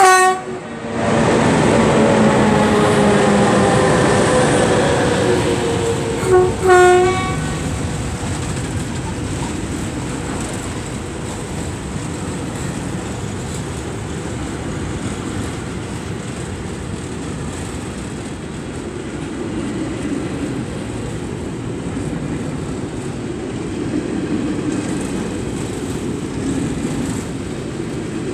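Freight train passing close by, hauled by two Fret SNCF electric locomotives. A horn blast sounds right at the start and the locomotives' whine falls in pitch as they go past. Two short horn blasts come about six and a half seconds in, then the Lohr truck-carrying wagons roll by with a steady rumble and clatter of wheels on rail joints.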